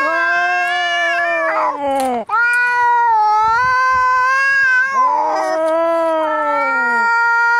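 Domestic cats caterwauling in an angry standoff: long, drawn-out wavering yowls, one breaking off about two seconds in and another starting at once.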